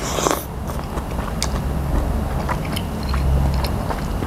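Close-miked biting and chewing of a mouthful of spicy papaya salad with crispy fried squid tentacles, with a sharp bite right at the start, then crunchy clicks and wet mouth sounds.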